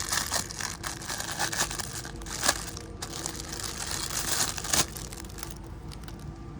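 Plastic packaging crinkling and crackling as an item is worked out of it by hand, with sharp snaps throughout, the loudest about two and a half seconds in and again near five seconds.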